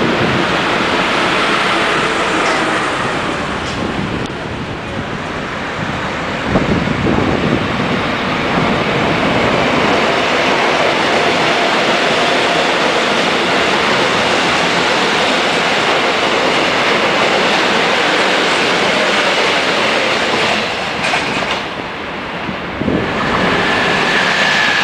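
Trains passing close by at speed, one after another: a KTX high-speed train, then a commuter electric train along a platform, then a locomotive-hauled passenger train. The rush of wheels on rail and air is steady and loud, broken by short dips where one train gives way to the next.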